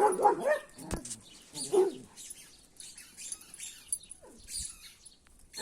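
A dog making short, high whining cries that bend up and down, the loudest at the start and again just before two seconds in, then fainter.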